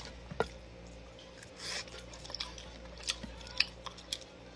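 Quiet eating sounds from a meal eaten by hand: scattered small sharp clicks and a brief soft rustle, with soft chewing.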